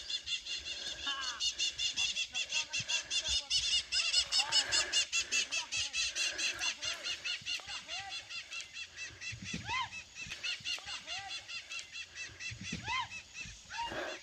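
Birds calling: a rapid, steady run of high repeated chirps, about five a second, that thins out towards the end, with a few lower single calls that rise and fall now and then.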